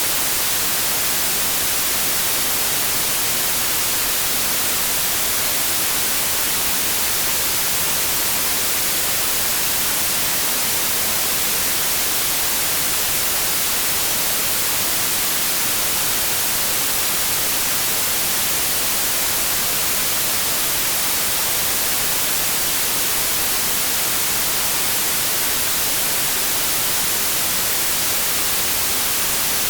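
Steady white noise: an even, unchanging hiss across all pitches, with no tones or breaks.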